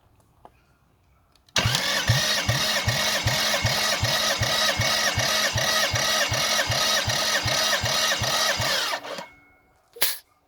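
Toyota 1MZ V6 engine being cranked over by its starter motor for about seven seconds, a steady whine with an even pulsing of about three beats a second, never catching and running. The cranking stops abruptly, and a single sharp click follows about a second later.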